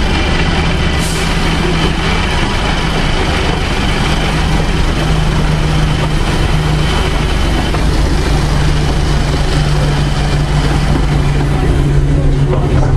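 Narrow-gauge train heard from on board while running, with a steady locomotive engine drone over wheel and rail noise; the drone shifts slightly in pitch a few times.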